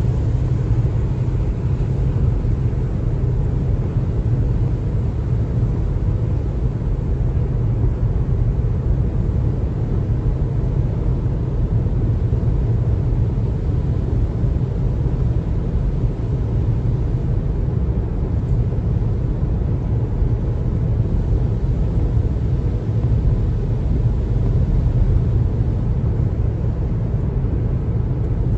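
Steady low road rumble of a car being driven, tyre and engine noise with no change in pace.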